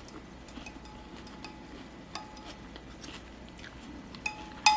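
Light clinks and taps of cutlery against a dish, a few small ones that ring briefly, then a louder ringing clink near the end.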